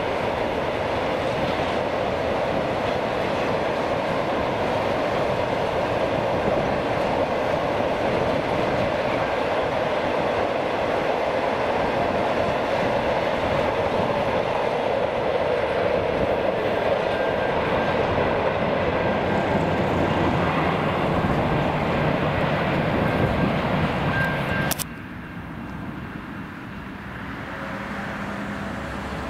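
Heritage passenger train's carriages rolling past close by: a steady, loud rush and rumble of wheels on rail with some clickety-clack. About 25 s in it cuts off suddenly to a much quieter, distant low hum.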